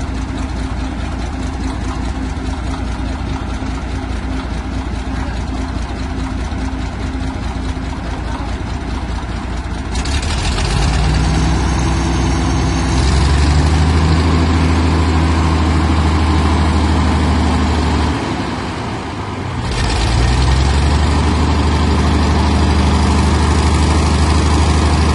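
Heavy diesel engine of a crawler tractor, a Caterpillar D4, idling with a steady low throb. About ten seconds in it is revved up and held at high revs, eases off briefly, then is revved hard again.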